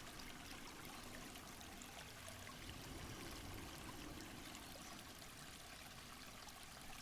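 Faint, steady rushing of running water, like a forest stream.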